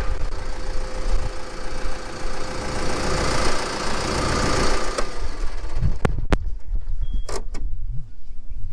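An engine running steadily, which cuts off abruptly about five seconds in. A few sharp knocks follow.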